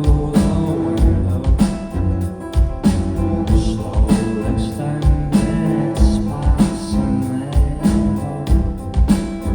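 Live rock band playing a song: a steady kick-drum beat under guitars, with a voice singing over it.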